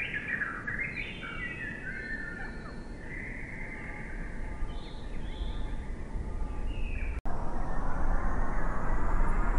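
Birds calling outdoors: a series of short chirps and whistled glides over a low background hiss. After an abrupt cut about seven seconds in, a louder steady hiss takes over.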